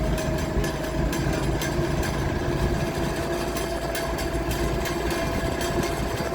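Tractor engine running steadily under a low rumble and two held tones, with frequent light clicks and rattles throughout.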